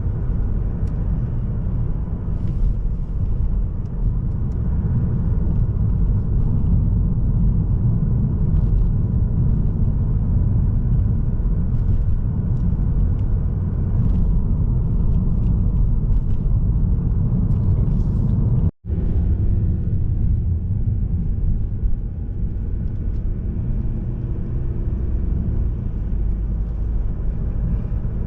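A Mazda3 sedan (SKYACTIV-D 1.8 diesel) driving at steady speed: a continuous low rumble of road and engine noise. The sound cuts out for a split second about 19 seconds in, then resumes unchanged.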